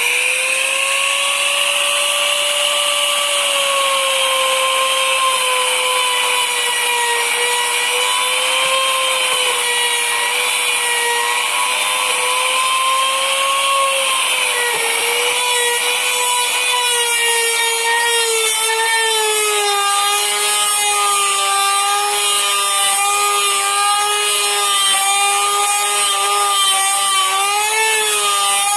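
Electric trim router with a straight bit, running at full speed with a steady high whine. About halfway through, the pitch drops slightly and wavers as the bit cuts a hole into wood under load.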